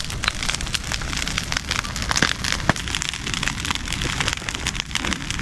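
Large bonfire burning, crackling and popping steadily over a low rumble, with a few sharper snaps about two and three seconds in.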